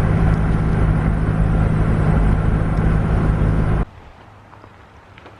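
Steady motor-vehicle engine and road noise that cuts off abruptly about four seconds in.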